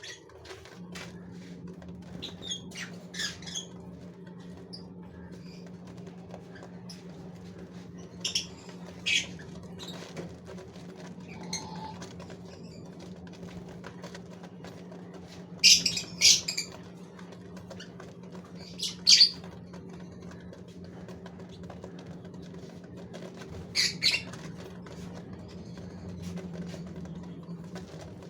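Gouldian finches in a breeding cage: short, sharp high-pitched calls and wing flutters every few seconds, over a steady low hum.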